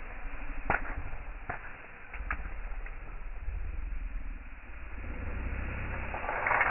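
Wood campfire crackling: a few sharp pops stand out in the first seconds and a denser run of crackles comes near the end, over a low rumble.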